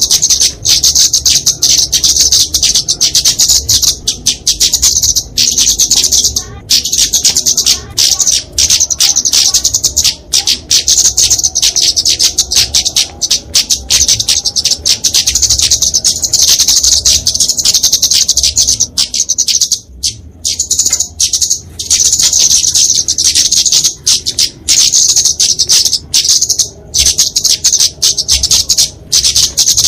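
Kemade flowerpecker fighting calls: a fast, near-continuous stream of high-pitched chips. Short breaks come about six and twenty seconds in.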